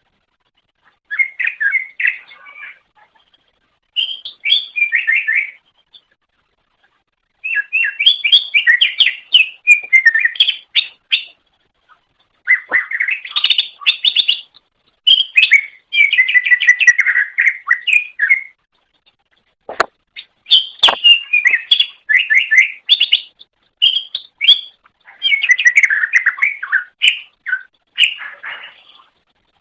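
Green leafbird (cucak ijo) singing in loud phrases of rapid, twittering chirps, each a few seconds long, with short pauses between them. A couple of sharp clicks come about two-thirds of the way in.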